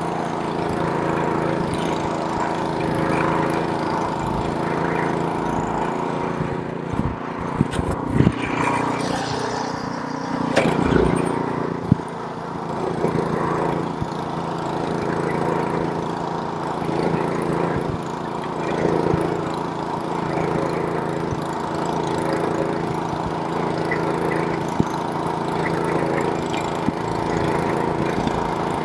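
Snowblower's small gasoline engine running steadily under load, with a handful of sharp knocks and clatters about a third of the way through.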